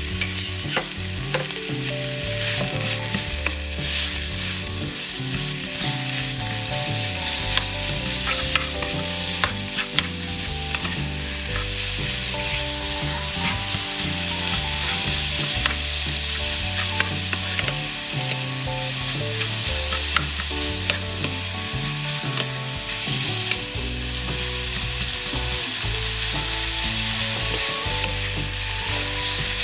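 Basil chicken stir-fry sizzling in hot oil in a pan while being stirred, with a steady hiss and frequent short clicks and scrapes of the spatula against the pan.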